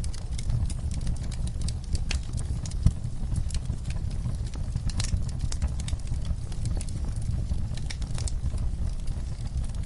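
Wood fire crackling in a fireplace: frequent irregular pops and snaps over a steady low rumble of burning, with one louder pop about three seconds in.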